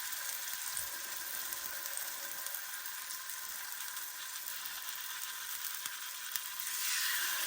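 Marinated chicken thighs sizzling and crackling as they sear in hot olive oil in a frying pan, getting louder about seven seconds in.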